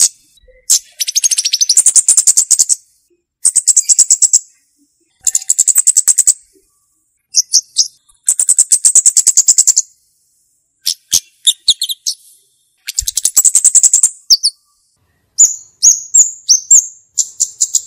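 A flowerpecker (cabe-cabean) calling in repeated bursts of fast, high-pitched chattering trills, each lasting about a second or two with short gaps between. Near the end the bursts break into quicker, sharper separate notes.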